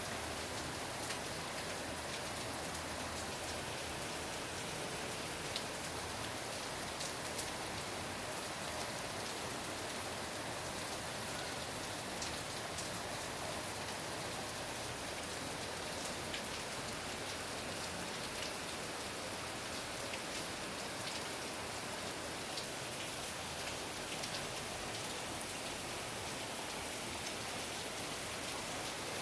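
A steady, even hiss with scattered faint ticks, like rain falling, holding the same level throughout.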